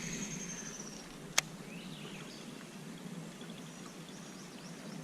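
Quiet outdoor ambience over water with faint bird chirps, a single sharp click about a second and a half in, and a faint high whine fading out in the first second.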